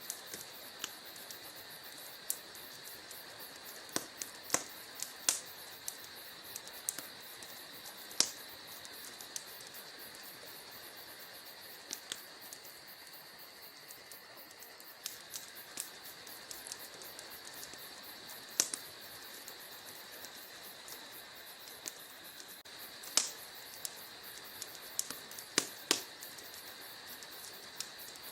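Wood fire in a fireplace crackling: irregular sharp pops and snaps over a steady soft hiss. The loudest pops come about eight seconds in and again about twenty-three seconds in.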